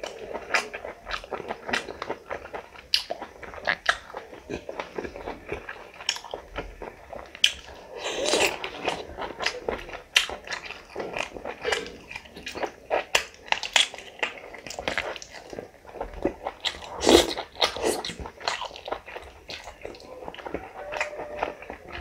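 Eating sounds: biting and chewing meat curry off the bone, many sharp mouth clicks, with louder bites about 8 and 17 seconds in.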